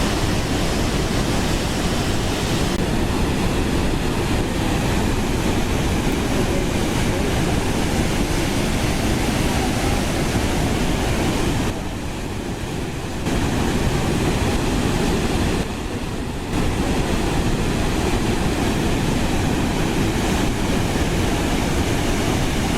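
Waterfall rushing: a steady, dense roar of falling water, briefly quieter twice around the middle.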